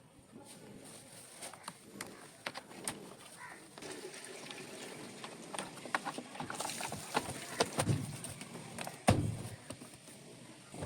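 Irregular clicks and knocks, busier in the second half, with one heavier thump about nine seconds in.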